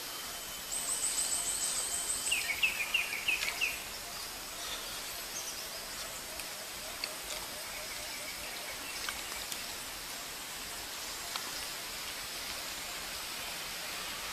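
Wild birdsong: a quick run of high notes, then about five lower, repeated chirps, over a steady outdoor hiss.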